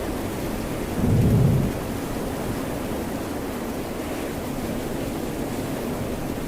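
Steady rain and ocean surf, an even rushing hiss, with a brief low rumble about a second in.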